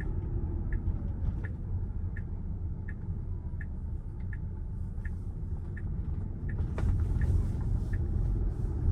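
Road and tyre rumble inside the cabin of a Tesla Model Y, an electric car, while driving, with a small tick repeating about once every 0.7 s, like a turn signal clicking.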